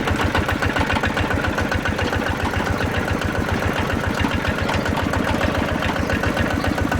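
Ride-on mini tractor's engine running steadily with a rapid, even beat.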